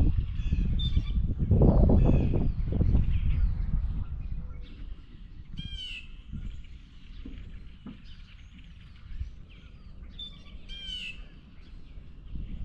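Blue jays calling, with two runs of quick harsh notes about six seconds and eleven seconds in, among lighter bird chirps. A loud low rumble fills the first few seconds.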